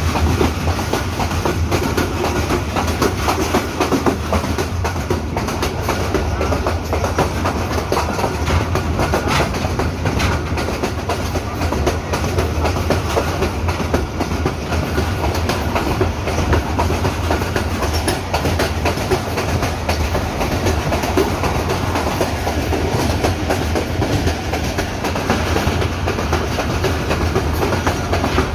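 Hazara Express passenger train running on the track: steady wheel-and-rail rumble with the clickety-clack of the wheels over the rail joints.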